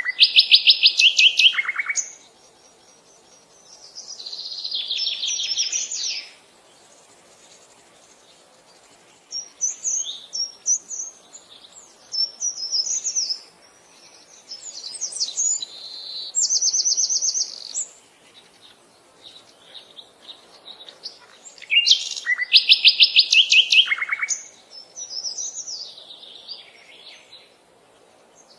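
Birds singing: one loud song of rapid repeated notes comes twice, near the start and again about 22 seconds in, and other birds answer between with shorter chirps and warbling phrases.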